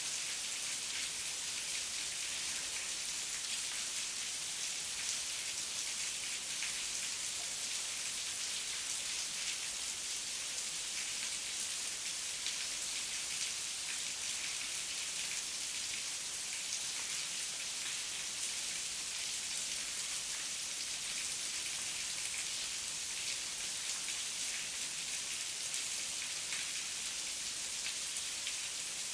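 Heavy rain falling steadily, a dense even hiss of drops with no thunder or other events.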